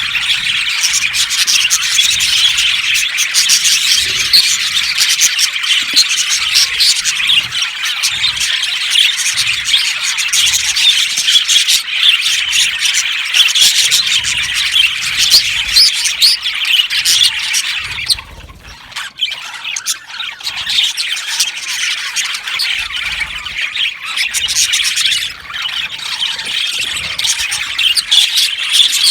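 A flock of budgerigars chattering, chirping and squawking continuously, many birds calling at once, with a brief lull about two-thirds of the way through.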